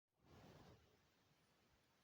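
Near silence: faint background hiss, with a brief soft rustle in the first second.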